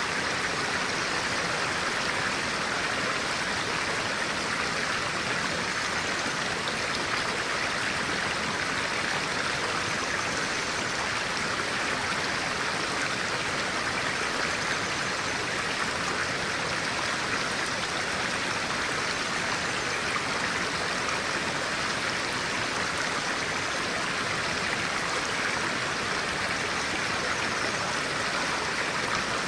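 Stream of clear water flowing, a steady, unbroken rush of water.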